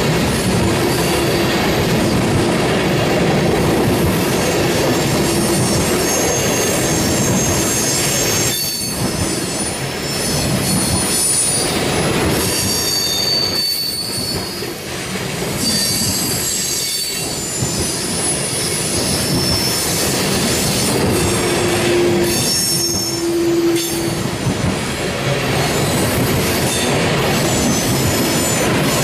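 Cars of a freight oil train rolling past, steel wheels rumbling on the rails. Shrill wheel squeals rise and fade on and off.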